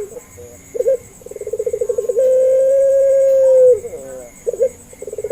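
Puter pelung dove cooing: a quick rolling stutter of notes runs into one long, steady held coo about two seconds in. A short falling note and a brief call follow, and the stutter starts again near the end.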